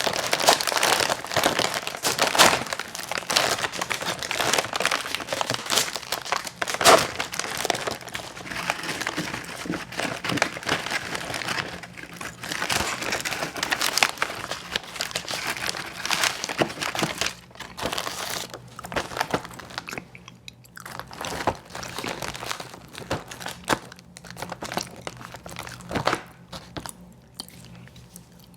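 Close-miked eating of ice cream sandwiches: crunching bites and chewing, with crinkling. The sounds come thick and loud at first and turn sparser and quieter over the last several seconds.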